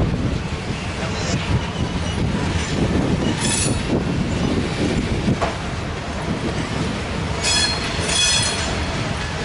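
Covered hopper cars of a grain train rolling past: a steady rumble of wheels on rail, with brief high-pitched wheel squeals about three and a half seconds in and again near the end.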